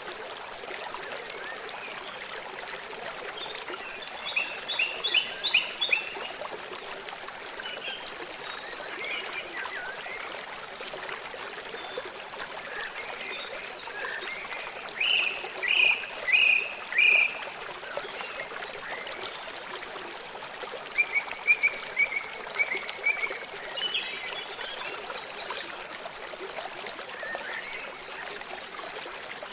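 Steady running water of a stream, with several bursts of short, repeated animal calls over it; the loudest burst is a run of four sharp notes about halfway through.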